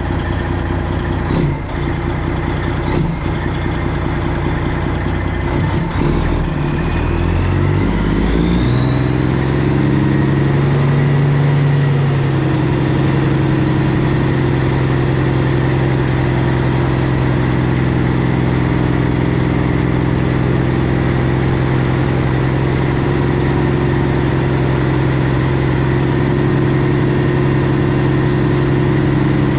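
Straight-piped Freightliner Classic XL's 12.7-litre Detroit Diesel engine under way, changing pitch with a few brief breaks early on, then settling at a steady engine speed from about eight seconds in. A thin high whine rises and then holds steady over the engine.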